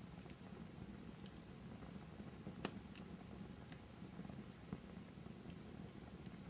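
Fire burning in a fireplace: a faint, steady low rumble with scattered crackles and pops, the loudest a sharp pop a little over two and a half seconds in.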